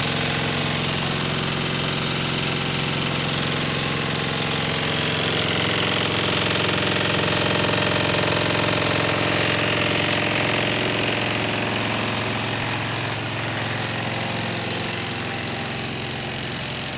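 Industrial microwave tea-drying machine running steadily: a continuous machinery hum under a strong high hiss, easing slightly in level about two thirds of the way through.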